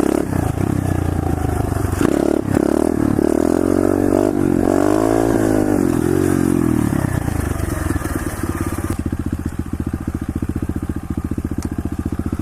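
Pit bike engine revving up and down several times while riding, then dropping to a steady idle about nine seconds in.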